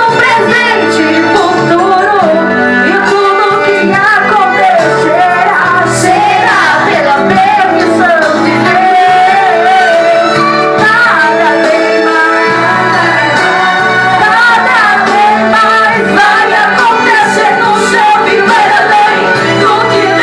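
Pentecostal worship song: a woman's voice sings a melody over steady instrumental accompaniment, loud and continuous.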